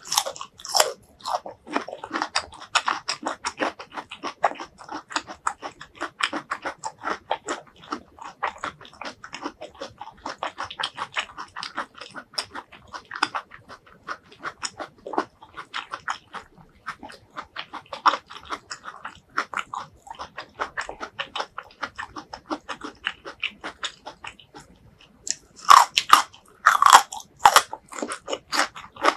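Close-up chewing of crisp stir-fried vegetables, starting on a baby corn: fast, wet crunching and biting clicks. Near the end comes a short pause, then louder crunchy bites.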